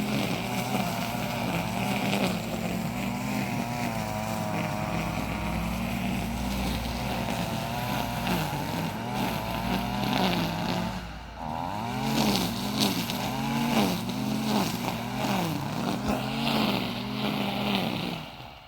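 Car engine and road noise heard from inside a moving car. After a brief dip about eleven seconds in, the engine pitch rises and falls repeatedly.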